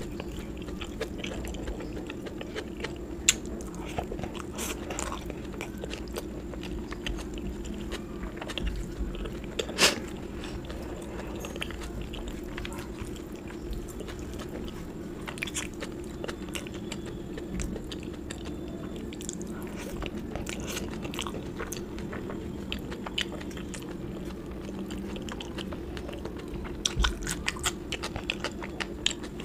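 A person chewing and biting South Indian food close to the microphone, with scattered short mouth clicks and crunches. Two sharper clicks stand out, about three and ten seconds in, and there is a quick cluster of them near the end.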